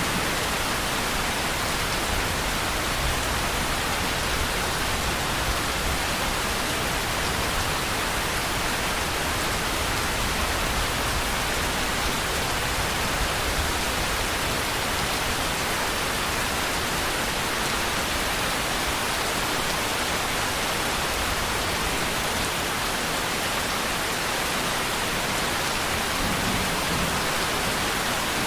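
Steady, even rainfall, a dense hiss of raindrops with no break.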